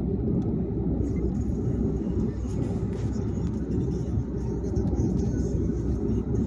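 Steady low rumble of a car driving at highway speed: tyre and road noise with the engine underneath, plus a few faint high ticks.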